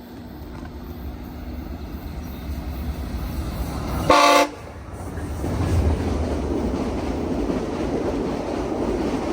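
VIA Rail P42DC locomotive 909 leading a passenger train: a rumble building as it approaches, one short, loud horn blast about four seconds in, then the steady rush of the cars and wheels passing close by.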